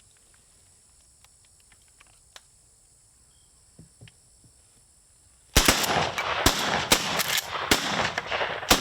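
Rapid string of shotgun blasts, about five in three seconds, that begins suddenly about five and a half seconds in after a near-quiet stretch with a few faint clicks.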